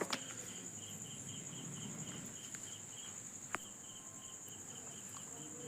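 Insects chirping: a steady high-pitched drone, with a second insect pulsing about four times a second that stops about halfway through. A few faint sharp clicks.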